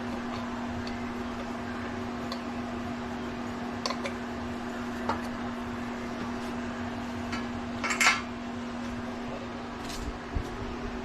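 Metal parts and tools clinking and clattering a few times while parts are fitted back onto a Honda GX200-clone small engine, the loudest clatter about eight seconds in, over a steady background hum.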